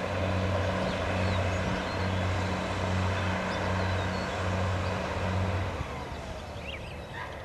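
Gas well drilling rig's machinery running with a loud, low drone that swells and dips about once a second, easing off about six seconds in. A few short high chirps come near the end.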